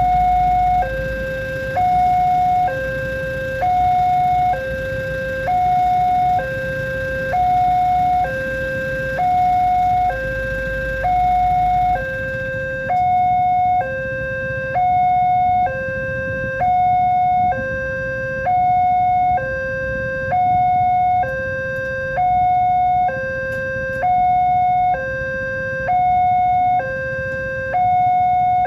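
Railway level-crossing warning alarm sounding a steady two-tone signal, a higher tone and a lower tone alternating about once a second each; it warns that a train is approaching and the crossing gates are closed.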